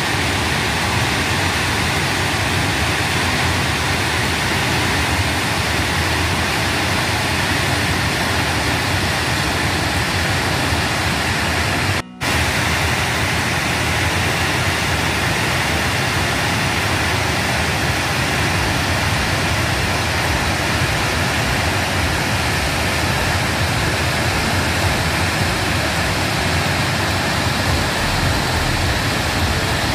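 Chitrakoot Falls, a large waterfall, giving a steady, dense rush of falling water, with a brief dropout about twelve seconds in.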